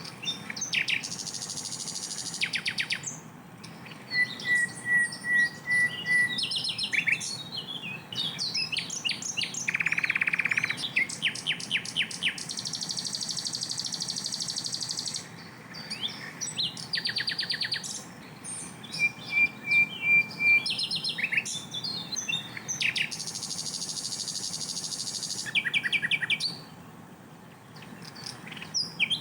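Sikatan londo flycatcher singing in dense, varied phrases: rapid strings of sharp repeated notes, buzzy trills and short whistled note series, broken by brief pauses.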